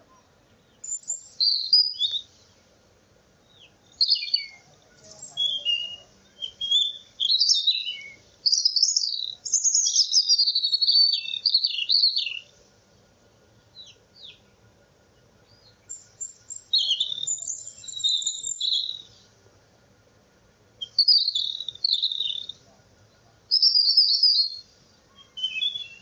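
A bird singing in phrases of rapid, high-pitched chirps and trills, with short pauses between the groups of phrases.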